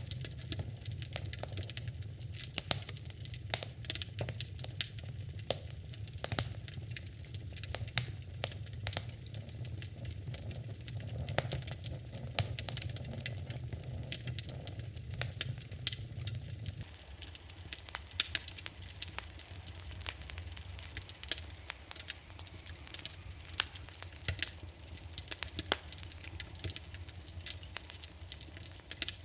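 Wood fire in a fireplace crackling and popping, with many sharp snaps over a low, steady rumble of the flames. The rumble drops lower about two-thirds of the way through.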